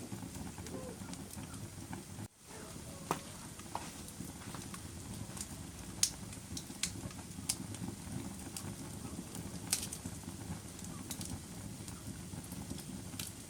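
Wood fire burning in a fireplace: a steady low rush of flames with sharp crackles and pops scattered every second or so. The sound drops out for a moment about two seconds in.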